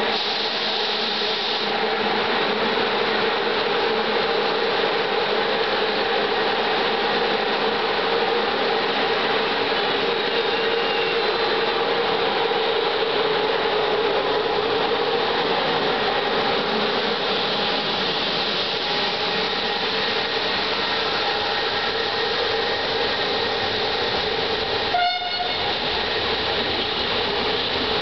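Passenger train at a station: a steady running noise with a constant hum, and one sharp click near the end.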